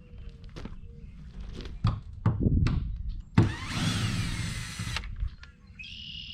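Power drill running for about a second and a half, its whine rising and then falling in pitch, drilling out a rivet on a plastic porta-potty seat. Knocks and clunks come before it.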